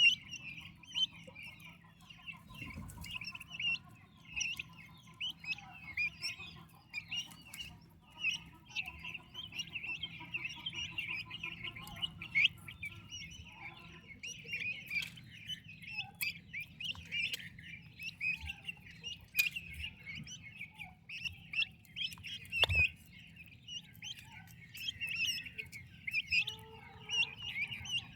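A brood of turkey poults peeping continuously, many short high chirps overlapping, with a few sharp knocks, one loud one near the end.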